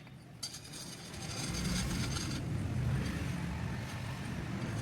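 A motor vehicle engine running with a low rumble. It starts quieter after a sudden cut and builds up over the first couple of seconds.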